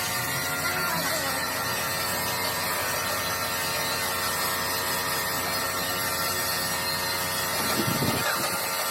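Workshop machinery running steadily: a motor hum with several steady tones over a constant hiss. A brief, louder grinding sound comes near the end.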